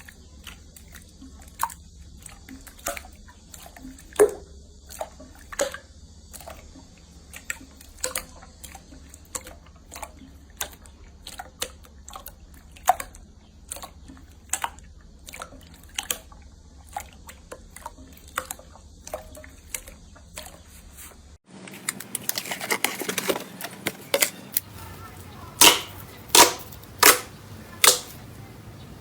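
Slime being pressed and worked by hand, with sharp clicking pops about once or twice a second as air pockets burst. About two-thirds through the sound changes abruptly to a noisier, wetter squishing with several louder pops near the end.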